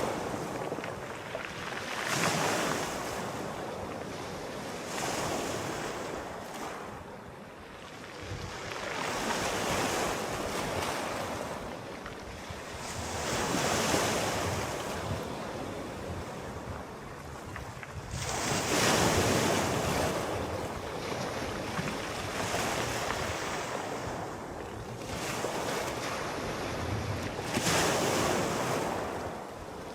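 Sea waves breaking and washing in, swelling and fading every few seconds, with some wind noise on the microphone.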